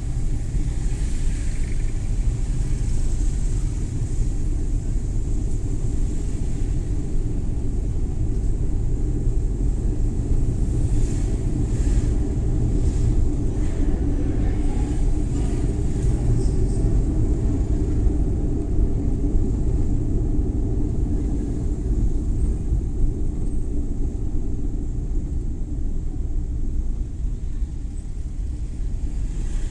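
Suzuki Every Wagon (DA64W) kei van driving, with a steady low rumble of engine and road noise.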